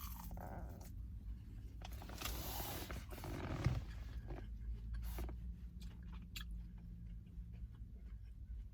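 A person chewing food, with small wet mouth clicks, over a steady low hum.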